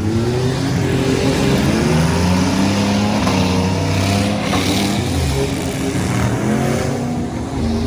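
Several full-size trucks' engines revving hard together, their pitch rising and falling as the drivers accelerate and back off in the demolition derby.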